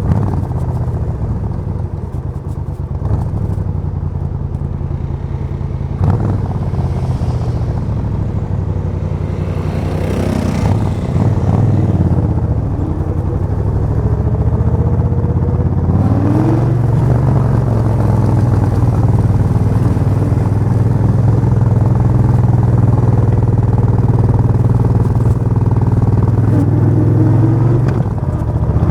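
Suzuki VS1400 Intruder's 1360 cc V-twin engine running steadily, its revs rising and falling a few times, about a third of the way in, again a little past halfway and once more near the end.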